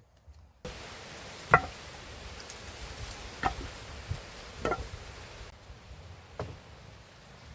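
Four sharp blows on wood, spaced one to two seconds apart, the first the loudest, over a steady hiss.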